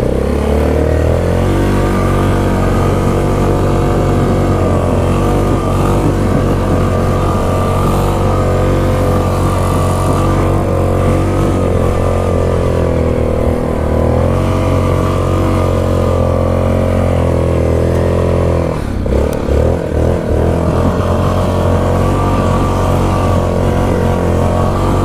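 Yamaha Grizzly 660 ATV's single-cylinder four-stroke engine running at a fairly steady throttle, with the throttle let off briefly about nineteen seconds in and then opened again.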